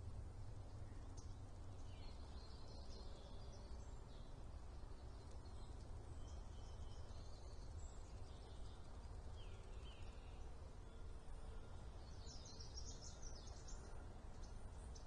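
A steady low background rumble with faint, scattered high bird chirps and twitters, busiest near the end.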